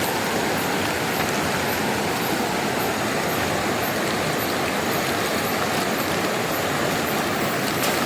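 Steady rushing of river water: an even, unbroken noise with no single events standing out.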